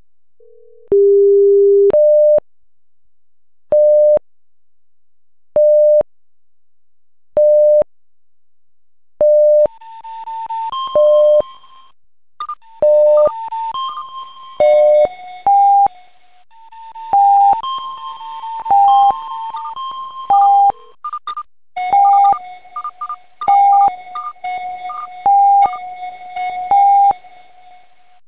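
Electronic beep tones from a live seismic monitor's sound alerts. At first a single beep sounds about every two seconds, then from about ten seconds in many beeps of different pitches pile up in a dense, overlapping chatter.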